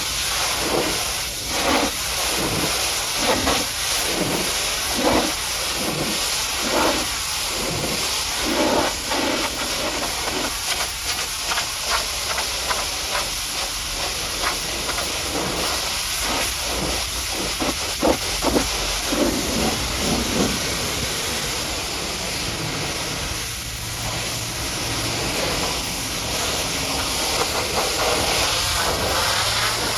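High-pressure washer jet spraying water against a truck, a steady loud hiss that swells and fades about once a second as the jet sweeps back and forth.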